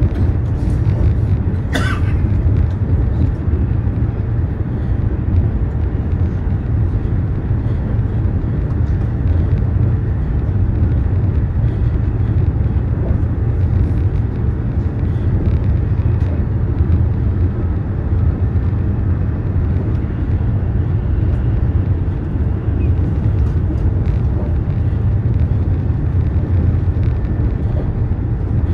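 Steady low rumble of a high-speed train running at speed, heard inside the passenger cabin. A brief sharp high-pitched sound comes about two seconds in.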